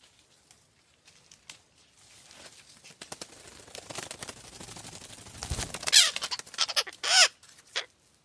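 Rustling and handling noise building up, then a bird squawking loudly three times near the end, harsh bending calls.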